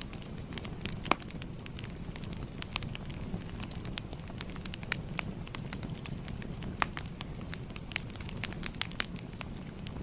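Fire crackling: irregular sharp pops and snaps over a steady low rush of flames, with one louder pop about a second in.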